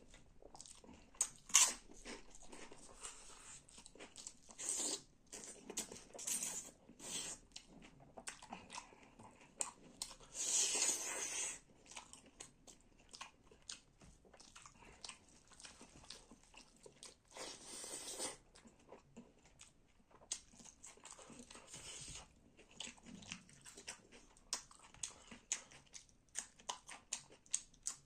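Close-up eating sounds: a person biting, chewing and crunching food in many short sharp clicks. Twice there is a longer noisy stretch of a second or so.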